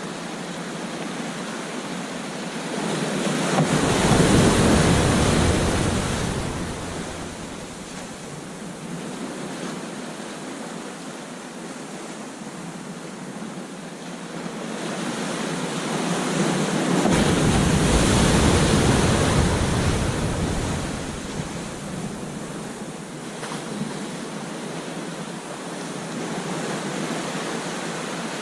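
Ocean surf breaking on a beach: a steady wash of water with two louder waves crashing, one about four seconds in and a longer one midway through, with wind buffeting the microphone.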